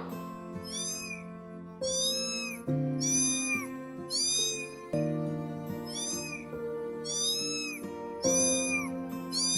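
A cat meowing over and over, about nine short high calls roughly a second apart, over steady background music.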